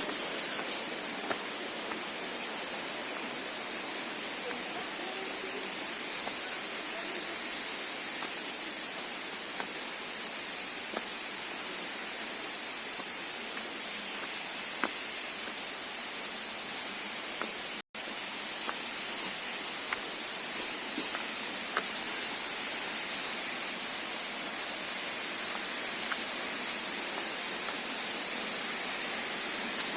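Steady outdoor hiss-like noise with a faint high steady tone and scattered light clicks; the sound cuts out for an instant a little past halfway.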